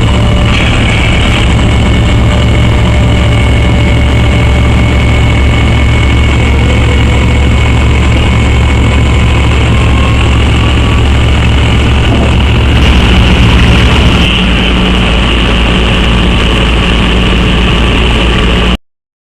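A diesel engine running steadily at idle. Its tone shifts about two-thirds of the way through, then the sound cuts off suddenly near the end.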